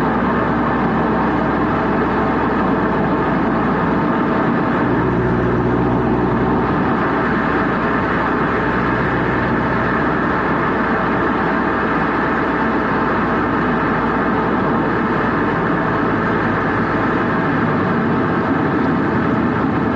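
Toyota GT86's 2.0-litre flat-four engine running steadily through a Blitz Nur-Spec R aftermarket exhaust, with an even, unbroken exhaust note.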